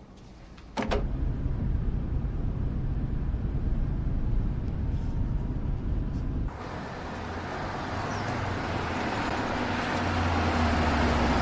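Car driving: a steady low engine and road rumble. About six and a half seconds in it cuts abruptly to a brighter hiss of traffic and road noise with a steady low hum underneath.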